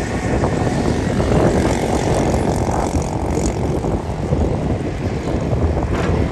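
Heavy diesel engine of earthmoving machinery running steadily and loudly.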